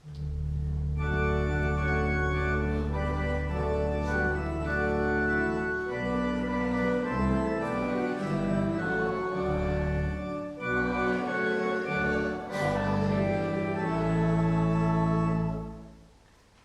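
Church organ playing a short passage: it opens on a held low bass note under a chord, moves through changing chords, and ends on a long sustained chord that dies away near the end.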